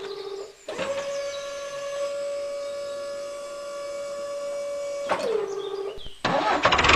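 Small electric motor whining at a steady pitch, spinning up about a second in, then winding down and stopping about five seconds in. A louder, noisier sound cuts in abruptly near the end.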